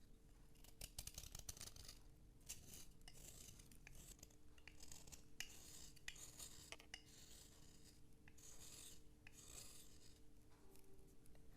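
Rasping, scraping strokes on a writing slate, a quick irregular series of short strokes that stops near the end.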